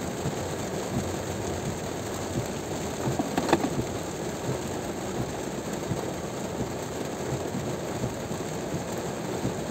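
Heavy rain on a car driving along a wet motorway: a steady hiss of rain and tyre spray. A brief louder sound with a short pitched edge comes about three and a half seconds in.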